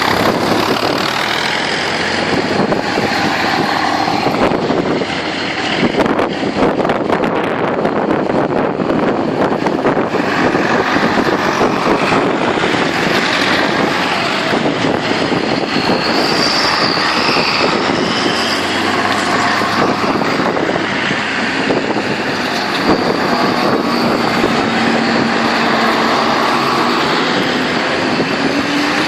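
Tractor engines running loudly and steadily as tractors on a road run drive along, with a low engine note holding steady in the second half.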